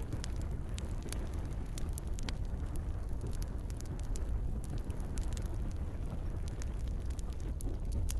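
Campfire crackling, with frequent sharp irregular pops and snaps of burning wood over a steady low rumble.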